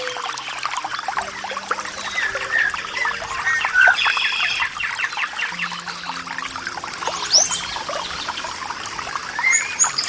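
Water trickling and splashing in quick, dense drips, with songbirds chirping and whistling over it in short calls. Soft, slow held music notes sit underneath.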